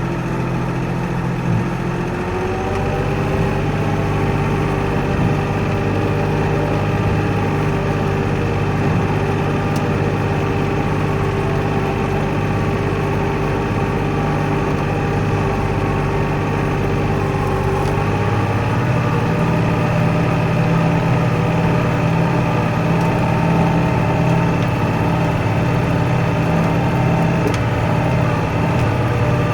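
Kioti NX4510 compact tractor's diesel engine running steadily as it works through deep snow, its note shifting about two seconds in and again around eighteen seconds in.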